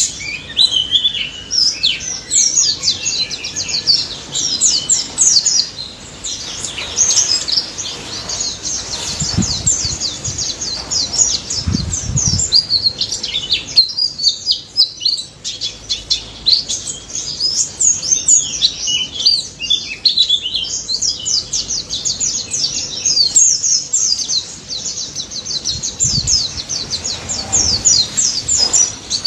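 Pleci (white-eye) singing a fast, unbroken stream of high chirps and trills in the wild 'ngalas' style, with a few low thumps in the middle and near the end.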